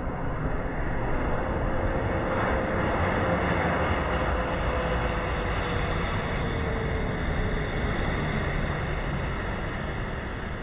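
Jet airliner passing low on its landing approach: a steady rush of engine noise with a faint tone that slowly falls in pitch as it goes by.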